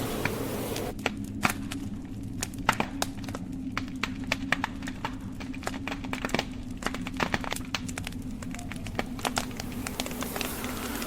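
Wood logs burning in a fireplace, crackling with frequent irregular sharp pops over a low steady rumble. A soft hiss drops away about a second in and comes back near the end.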